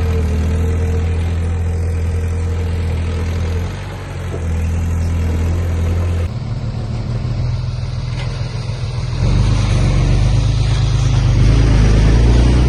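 Heavy diesel engine of earthmoving machinery running, its low steady note shifting twice and growing louder over the last few seconds as it works harder.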